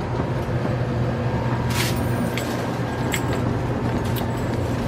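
Steady low mechanical hum of a running motor or engine, with a few light clicks over it.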